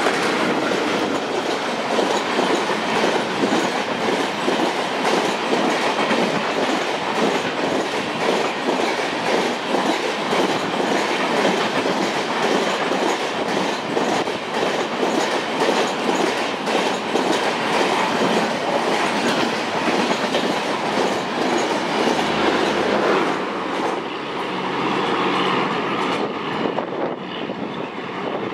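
Express train passing at speed: the passenger coaches' wheels clatter fast and steadily over the rail joints. About 24 s in the clatter ends and a quieter, steadier sound follows as the train draws away.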